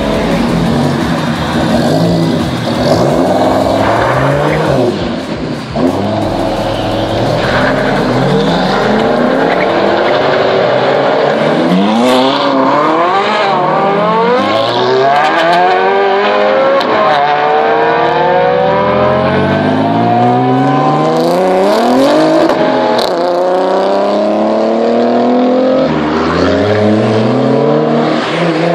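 Several high-performance sports car engines revving hard and accelerating away in turn. The pitch climbs repeatedly and drops back at each gear change.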